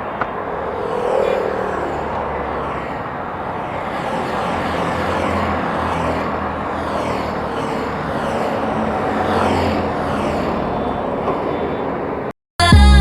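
Motorcycle ridden at highway speed, heard from the rider's helmet or bike camera: a steady rush of wind and road noise over the single-cylinder engine's drone. Near the end it cuts off and loud electronic music begins.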